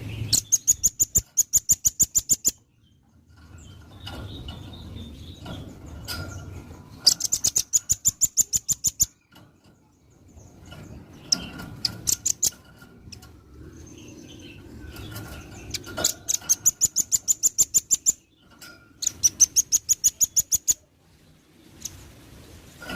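Velvet-fronted nuthatch calling in rapid trills of sharp, high notes, about eight a second. The trills come in four bursts of about two seconds each, with shorter, quieter phrases between them, over a low background rumble.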